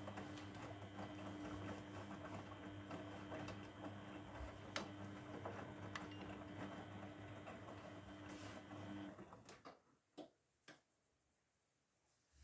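Grundig washing machine drawing in water at the start of its cycle: a steady hum with the rush of inflowing water, cutting off suddenly about nine seconds in. A few faint clicks follow near the end.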